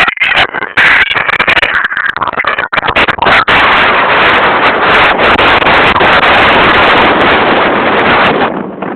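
Wind buffeting a phone's microphone while riding, loud and distorted, with crackling pops in the first few seconds before it settles into a dense, steady rush that eases near the end.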